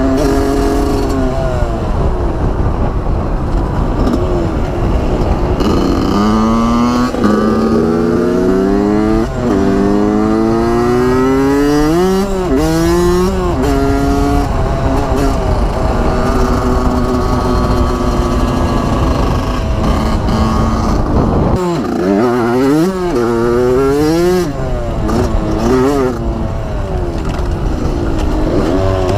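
Dirt bike engine revving as it accelerates, its pitch climbing in several runs that drop back at each gear change, then holding steady for a while. Near the end come quick rises and falls of the revs.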